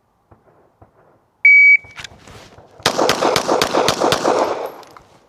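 Shot timer start beep, then a Glock 17's 9mm shots fired in a quick string, about four a second, with even splits of roughly a quarter second.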